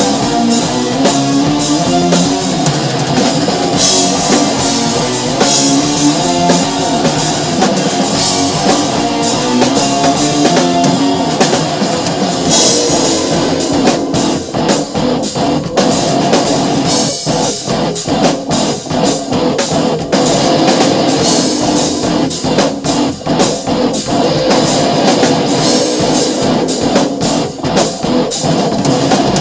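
Rock song with electric guitar and a drum kit playing a steady rock beat, the drums played along to the recording on a Sonor kit with Paiste cymbals; the drum hits stand out more sharply from about halfway through.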